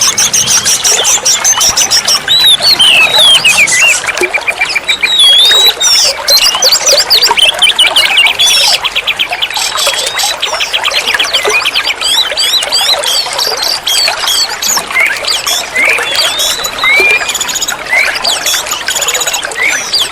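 Oriental magpie-robin (kacer) singing a loud, varied song of quick whistled notes and sweeping calls, with a fast rattling trill about halfway through, over a steady hiss.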